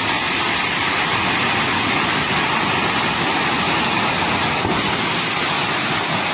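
The Swat River in flood: a steady rush of fast, heavy water.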